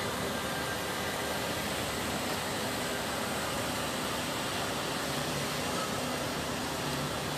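Steady, even hiss with nothing else on top of it, like an air conditioner, a fan or amplified microphone noise.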